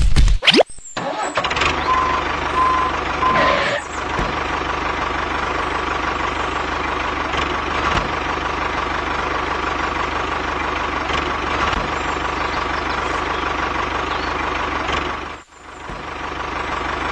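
Tractor engine running steadily, with a few short beeps about two seconds in. The sound drops out briefly near the end, then comes back.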